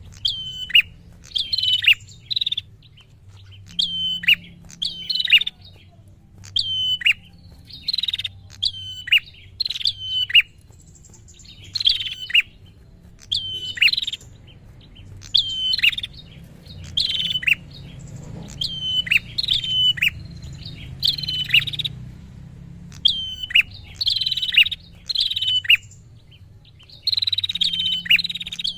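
Prinia (prenjak) calling in a rapid run of sharp, high chirps, each note dropping at its end, repeated in short bursts about once a second.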